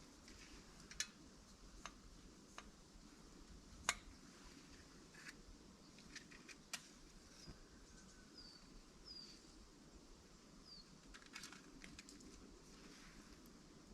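Near silence broken by a few scattered sharp clicks or snaps, the loudest about four seconds in, and three short high chirps a little past the middle.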